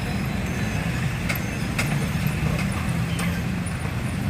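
Heavy vehicle running at a railway level crossing: a steady low rumble with a few faint sharp clicks.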